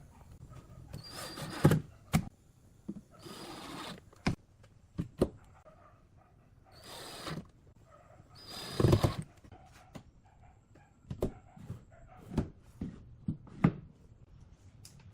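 Irregular knocks and taps, with a few short bursts of scraping noise, as of pieces being handled and worked in a workshop.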